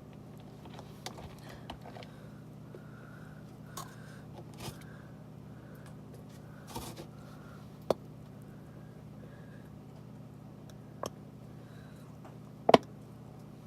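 Scattered light clicks and taps of handling, the loudest about a second before the end, over a steady low hum.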